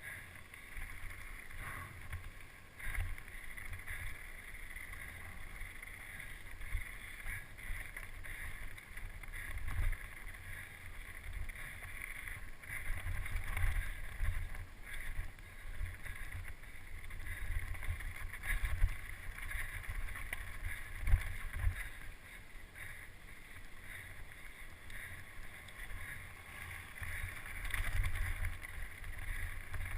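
Wind buffeting the microphone of a camera riding on a mountain bike at speed downhill, a gusty low rumble with irregular jolts and rattle from the rough ground.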